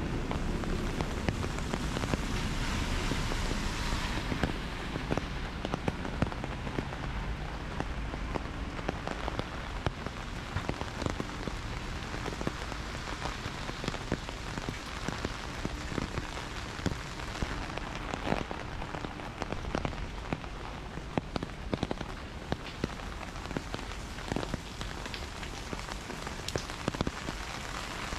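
Heavy rain falling steadily, with many sharp, close drop impacts scattered through the constant hiss.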